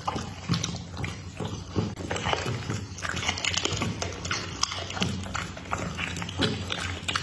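Pit bull chewing and biting into food, with irregular wet crunches and smacks coming several times a second.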